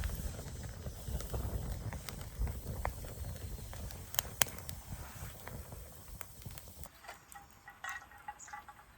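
Wind rumbling on the microphone with scattered sharp cracks from a newly lit campfire of twigs and dry cedar leaves, the loudest pair about four seconds in. The wind eases off about seven seconds in.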